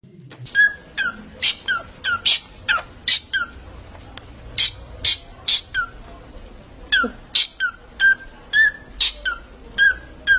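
A parrot giving a long run of short, sharp chirping calls, about two a second, each note dropping quickly in pitch.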